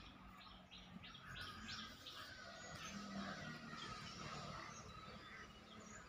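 Small birds chirping faintly: a quick series of short chirps, about three a second, in the first half, over a faint low hum.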